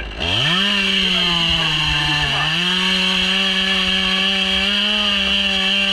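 Chainsaw revving up to full throttle and cutting into white birch wood. Its engine pitch dips briefly about two seconds in as the chain loads in the cut, then holds high and steady.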